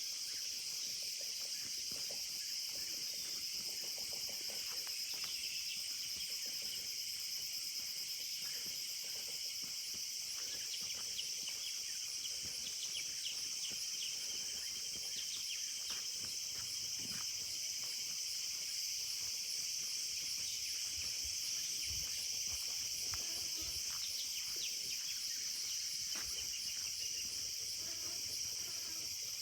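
A forest insect chorus: a steady, high-pitched trilling with a fast, even pulse, with scattered short higher chirps over it.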